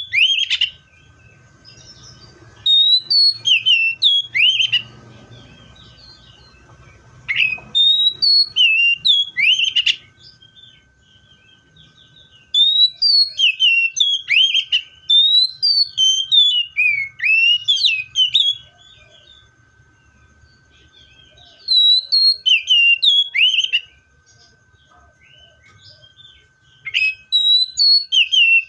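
Seychelles magpie-robin singing: loud phrases of sharp whistled notes with quick upward and downward slurs, each phrase lasting a few seconds, repeated about five times with short pauses between.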